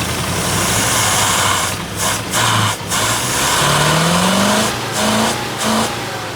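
Jeep V8 engine running and being revved: its pitch climbs for about a second, then it is blipped twice briefly, with short dips in level between. The owner says the engine is sucking air, with leaks in the fuel line and a failing fuel pump.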